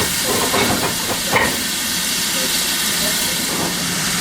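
Steam locomotive hissing steadily as steam escapes, with a brief knock about a second and a half in.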